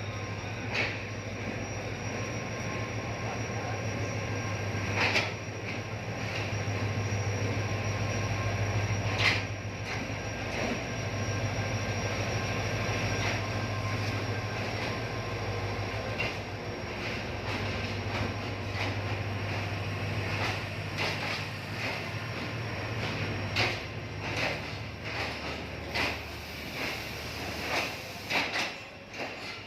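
Passenger train pulling into a station: a diesel locomotive's steady low engine hum, with wheels knocking over rail joints. Near the end the hum fades and the knocks come singly and irregularly as the train slows.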